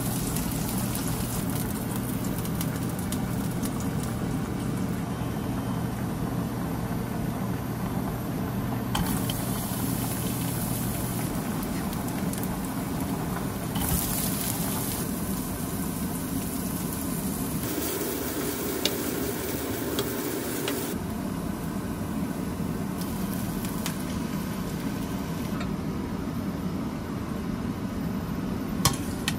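Food sizzling in a nonstick frying pan: thin-sliced beef belly (woo-samgyeop) frying as it is stirred with chopsticks, then sliced onion and garlic frying in oil, then pasta bubbling in a cream sauce near the end. The sizzle changes abruptly several times.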